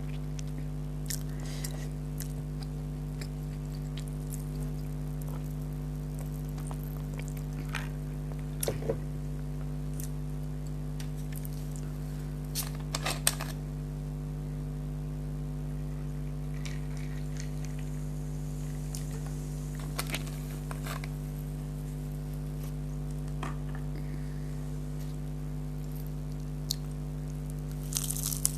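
Sporadic crunching and chewing of fried beef kachori: short crisp crunches and wet mouth sounds every few seconds, with small clusters near a third of the way in, about halfway and at the end, over a steady low electrical hum.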